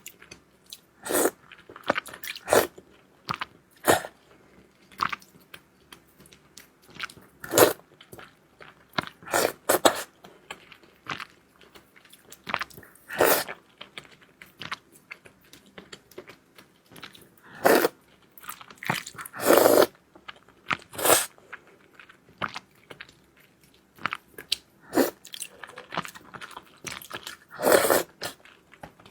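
A person biting and chewing food, with crisp crunches coming irregularly about once a second.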